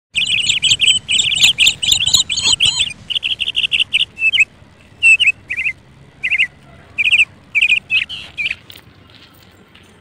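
A small bird chirping in quick runs of high, repeated notes. The runs are dense for the first three seconds, then come in short bursts with gaps, and stop near nine seconds in.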